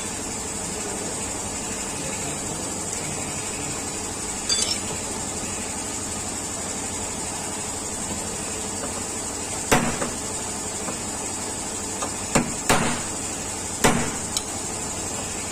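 Panel-beating hammer tapping a Volkswagen Polo's sheet-metal body panel during dent repair: a handful of separate sharp metal taps, most of them in the second half, over a steady background hiss.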